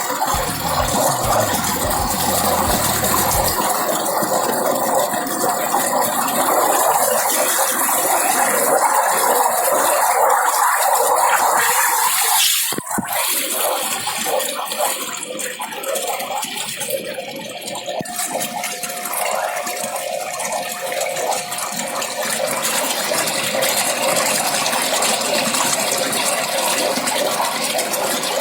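Water rushing steadily, a continuous noisy flow, changing abruptly about halfway through and again a few seconds later.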